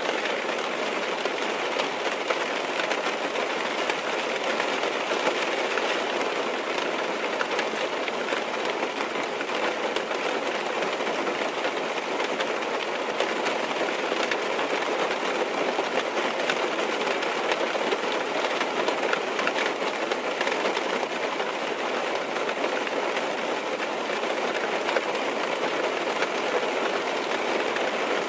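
Steady rain drumming on a car's roof and windows, heard from inside the cabin as an even, unbroken patter.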